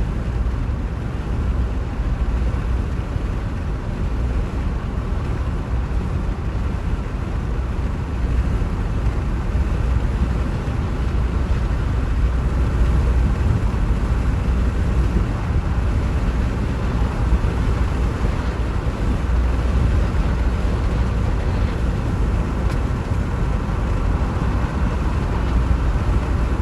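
Train running noise: a steady low rumble that swells slightly midway.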